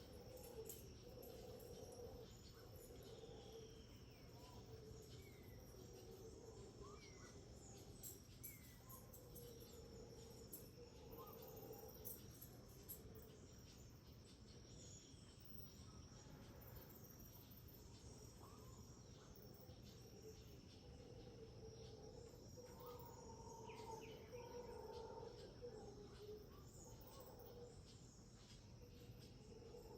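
Quiet tropical rainforest dawn chorus. Distant howler monkeys roar in a low band that swells and fades every few seconds, over an insect's steady pulsing high buzz, with scattered bird calls of short falling whistles.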